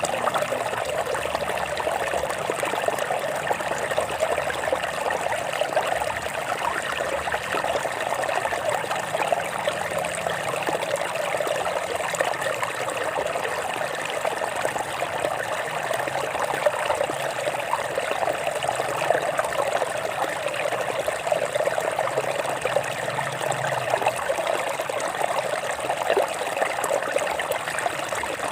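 A stream of water running and trickling over rocks, a steady splashing flow that keeps an even level throughout.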